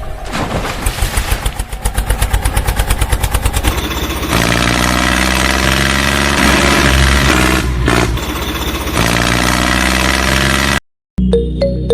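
Tractor engine chugging in quick even beats, about ten a second, then running steadier and louder from about four seconds in; it cuts off abruptly near the end.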